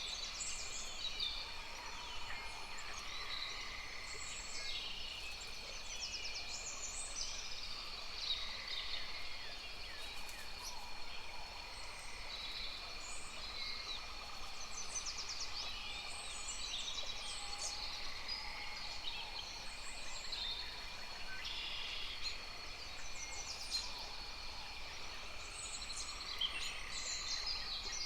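Many birds chirping and calling in overlapping short notes and quick trills, over a steady high-pitched hum.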